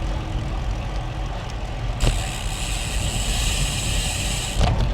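Wind rumble on the microphone of a road bike riding along a street. About two seconds in, a steady high buzz starts suddenly, then cuts off just before the end.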